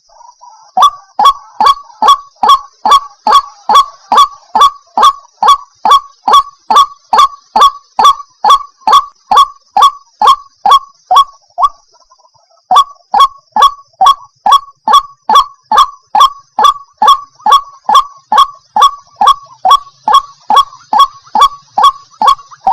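White-breasted waterhen calling: a fast, even run of short, sharp notes, about three a second, breaking off for about a second midway and then resuming. This is the kind of call played as a lure for trapping the bird.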